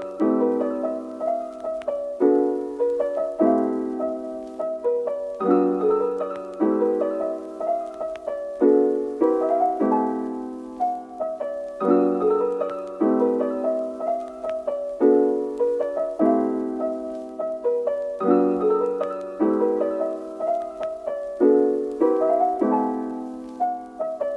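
Background piano music: a gentle, repeating pattern of struck notes and chords that changes about once a second.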